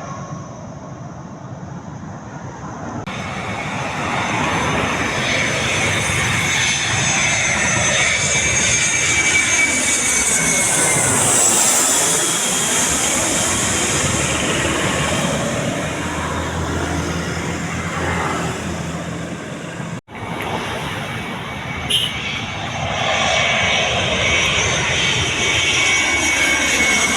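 Boeing 737 jet engines roaring as the airliner flies past, swelling after a few seconds, with a whine that slides slowly down in pitch. About 20 s in the sound cuts out for an instant, a short click follows, and the jet roar carries on.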